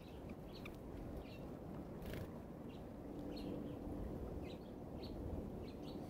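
Small birds chirping outdoors: short, high chirps scattered through, over a steady low background hiss, with a brief rustle about two seconds in.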